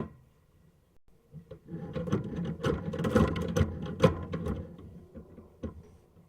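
Sewer inspection camera and its push cable clattering and scraping against the drain pipe. The clatter is a rapid run of knocks that builds about a second and a half in and dies away before the end.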